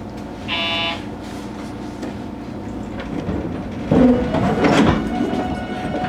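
Cab-interior sound of a JR Kyushu 813 series electric multiple unit: steady running noise, a short buzzer tone about half a second in, and louder clanks and knocks from about four seconds in.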